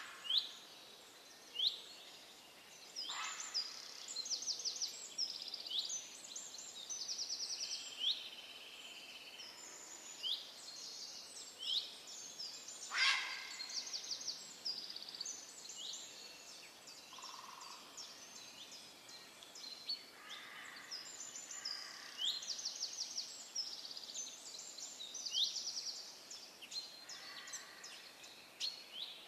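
Several birds calling and singing at once: short upward-sweeping chirps, rapid high trills and held whistled notes. One loud call comes about halfway through, over a steady background hiss.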